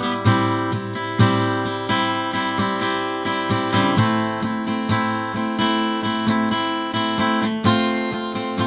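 Acoustic guitar strummed in a steady rhythm, chords ringing with a change about 4 seconds in and again near the end: an instrumental break with no singing.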